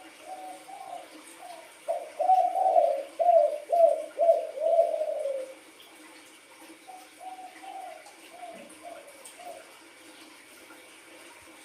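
Spotted dove (tekukur, sultan strain) cooing: a phrase of loud, rhythmic coos for a few seconds, followed by a softer run of coos.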